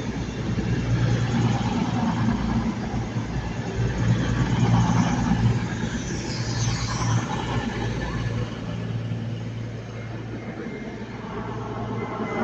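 A Class 221 Voyager diesel multiple unit running into the station, its underfloor diesel engines making a steady low hum that swells and then eases as it comes in. There is a brief high squeal about six seconds in.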